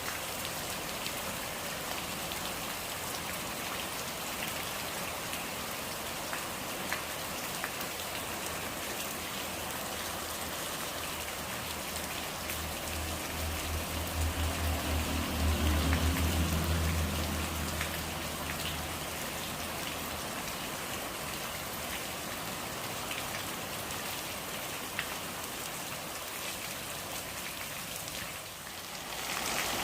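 Steady rain falling on a surface, with scattered drops ticking through it. A low rumble swells about halfway through and fades out a few seconds later. The level dips briefly just before the end, then comes back a little louder.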